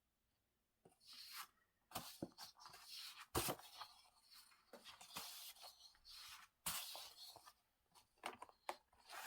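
Paper craft pieces being handled and worked: irregular bursts of rustling, scraping and tearing paper, with a few sharp clicks, starting about a second in.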